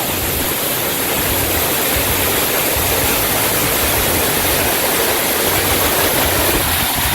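Waterfall in full spate, water crashing down the rock in a steady, loud rush.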